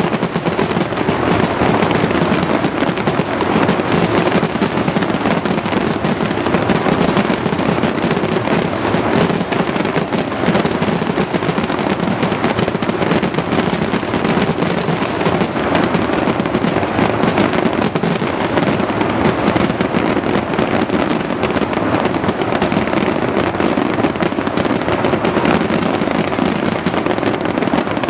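Fireworks display going off in a dense, unbroken barrage of rapid crackling bang after bang, steady and loud throughout.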